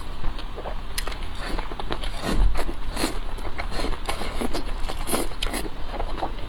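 Close-miked eating sounds: irregular chewing, smacking and crunchy clicks, loudest about two and a half seconds in, over a steady low hum.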